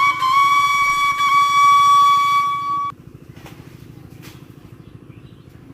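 Flute music holding a long, steady high note, which cuts off abruptly about three seconds in. A faint low hum is left after it.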